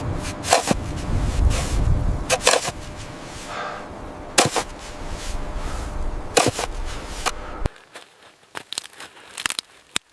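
Sharp knocks and crunches a second or two apart over a low rumble; the rumble cuts off suddenly about three-quarters of the way in, leaving fainter scattered clicks.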